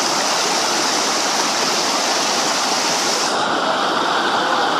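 Waterfall rushing: a steady, loud wash of falling water that turns slightly duller about three and a half seconds in.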